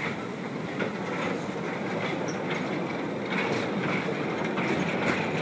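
Narrow-gauge steam-hauled mixed train running past, its wagons and coaches clattering over the rail joints in a steady rumble that grows a little louder.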